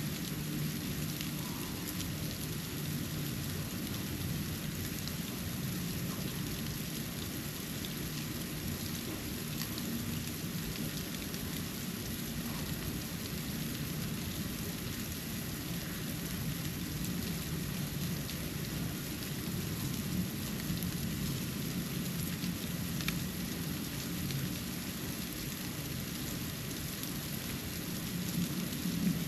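Snow falling steadily, a soft even hiss with faint tiny ticks of flakes landing, over a constant low rumble.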